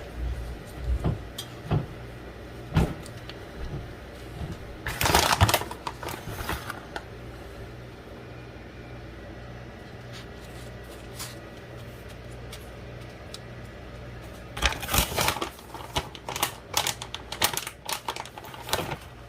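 Scattered knocks, clicks and rustling from food and kitchenware being handled while a pizza is put together, busiest near the end, over a steady low hum.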